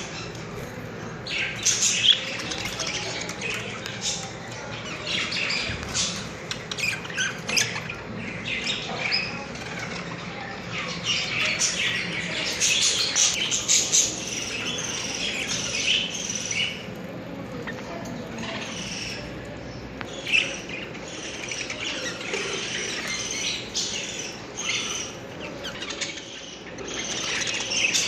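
Budgerigars chirping and chattering, a dense run of short, high calls that grows busiest in the middle.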